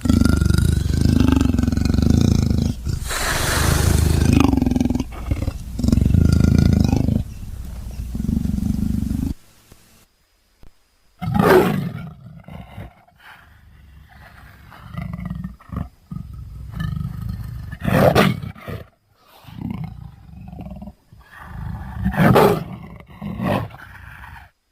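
Dinosaur creature sound effect built from leopard vocalizations, pitched and processed. A long run of roars and growls lasts about nine seconds and cuts off suddenly. After that come several separate roars with quieter growls between them.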